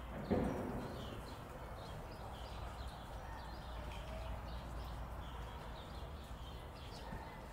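Small birds chirping in the background, short high calls scattered throughout, with one brief low thump just after the start.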